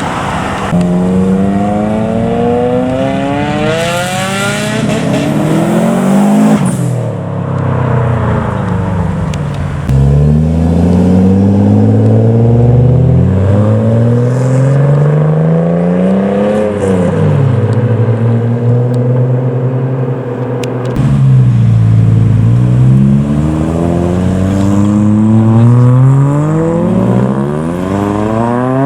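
Modified cars' engines accelerating hard one after another as they drive off, each pull rising in pitch, then dropping back as the car shifts up a gear or lifts off, several cars in turn.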